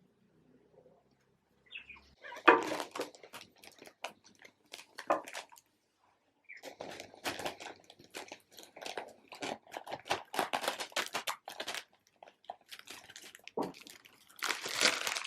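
Crinkling, crunching and clicking of things being handled by hand, in irregular spells with short pauses.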